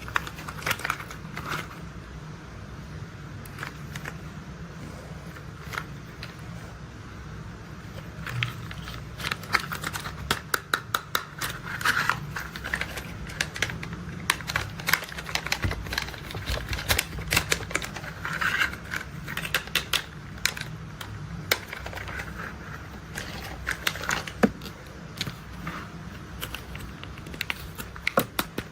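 Plastic toy construction vehicles being handled: rapid irregular clicks and rattles in clusters, over a steady low hum.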